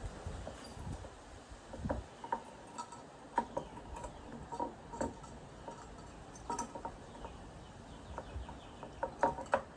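Light, irregular clicks and taps of hands working with a can, twine and a hot glue gun, gluing down the end of a twine handle.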